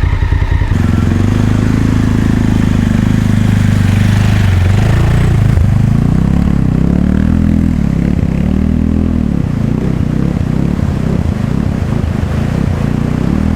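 Adventure motorcycle's engine pulling at low revs as it is ridden slowly across tricky ground, its pitch dipping and rising as the throttle is worked.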